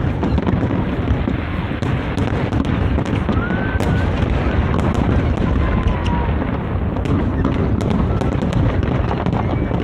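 Large fireworks display going off in a continuous barrage: overlapping booms with many sharp crackles throughout.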